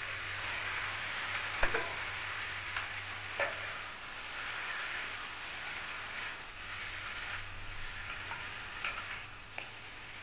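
Chicken feet and pork belly sizzling in a hot pan as they are stir-fried, with scattered sharp clicks and scrapes of the metal spatula against the pan.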